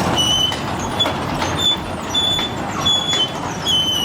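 Sawmill machinery running with a steady mechanical din, broken by short high-pitched metallic squeals every half second or so.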